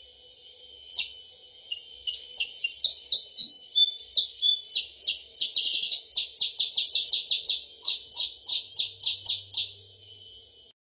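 Small songbird's sharp chirps played as a bird-trapping lure call: a few scattered calls at first, then a fast even run of about four chirps a second from about six seconds in, over a steady high hiss. The sound cuts off abruptly near the end.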